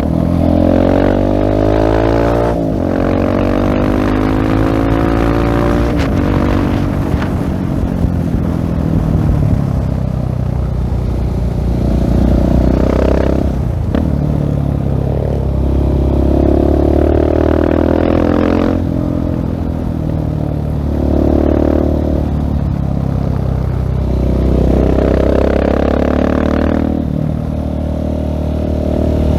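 2016 Husqvarna 701 Supermoto's single-cylinder engine through a LeoVince full-system exhaust, accelerating hard and backing off several times. Its revs climb and then fall away with each gear change and each roll-off of the throttle.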